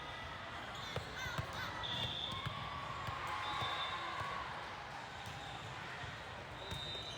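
Volleyballs thudding and bouncing on a gym's hardwood floor, with a couple of sharper smacks about a second in and a few short high squeaks, over faint voices echoing in the hall.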